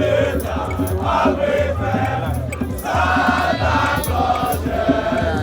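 A group of men singing a chant together in chorus, over a low bass line that steps between notes.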